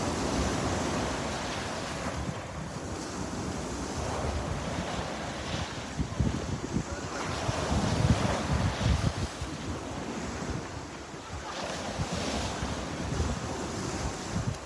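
Sea waves breaking on a shore, the surf swelling and easing, loudest about halfway through, with wind buffeting the microphone.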